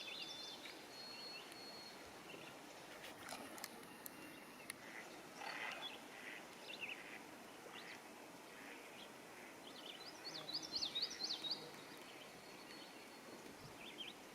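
Small birds chirping and twittering at intervals over a faint outdoor background, with a quick run of high chirps about ten seconds in.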